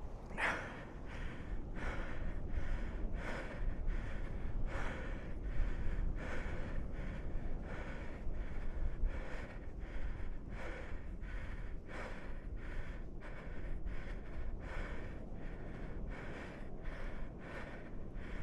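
A man panting hard, out of breath from exertion, with short noisy breaths about twice a second over a low steady rumble.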